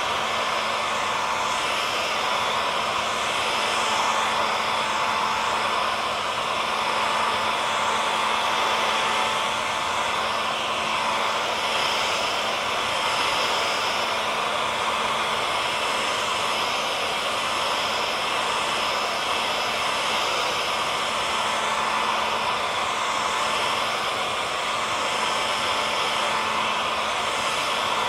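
Hair dryer running steadily: an even rush of air with a faint motor hum under it.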